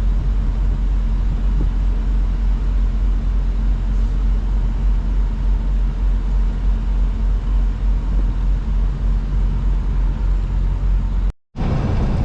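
Semi-truck running: a steady low drone of engine and road noise that cuts off abruptly near the end.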